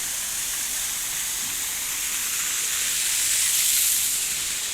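Water splashing down a small artificial waterfall: a steady hiss that swells a little about three and a half seconds in.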